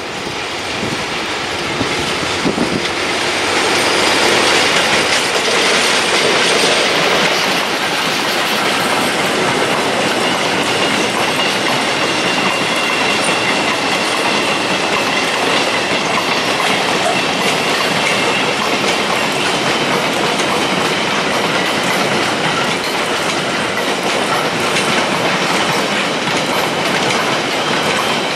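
SM31 diesel locomotive hauling a long train of empty car-carrier wagons past. It grows loudest a few seconds in as the locomotive goes by, then the wagons roll past with a steady rumble and wheels clicking over the rail joints. A faint high wheel squeal comes in around the middle.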